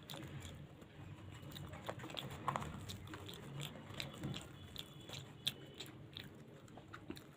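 A person chewing luchi and potato curry close to the microphone, with irregular small wet clicks and crackles of mouth and food, one louder crackle about two and a half seconds in.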